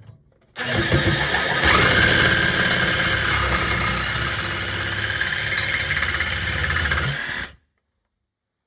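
A loud motor running steadily for about seven seconds, with a low hum under a wide hiss, then cut off abruptly.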